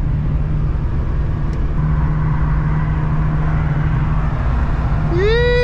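Inside the cabin of a 2004 Honda Civic coupe at highway speed: the engine drones steadily under road and wind noise, and the road and wind noise gets louder about two seconds in.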